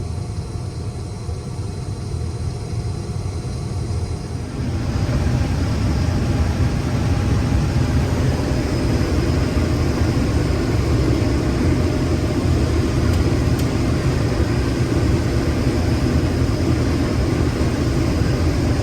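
Case IH 2388 combine running while it unloads grain into a truck: a steady low engine sound, joined about four and a half seconds in by a louder rushing noise that keeps on.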